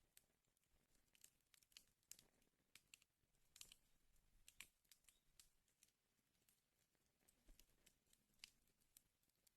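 Wood fire crackling faintly, with irregular sharp pops and snaps several times a second over a soft hiss of burning.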